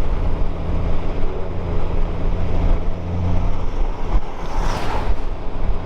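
Motorcycle engine running steadily at cruising speed, with wind buffeting the helmet-mounted camera. A brief, louder rush of noise comes about four and a half seconds in.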